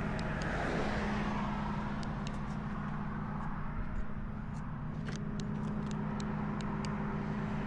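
Truck engine idling steadily, with a light scatter of faint sharp clicks now and then.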